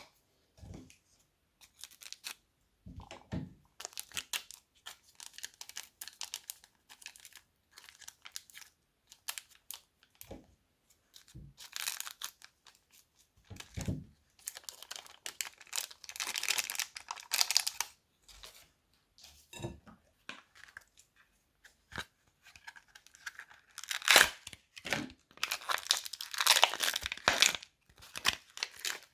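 Hands working crunchy slime with crackly add-ins: irregular crinkling, tearing and crunching in bursts, with a few soft low thuds.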